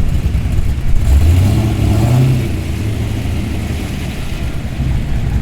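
Holden Clubsport's engine revving up about a second in, rising in pitch for a second or so, then easing back to a steady low running as the car drives in.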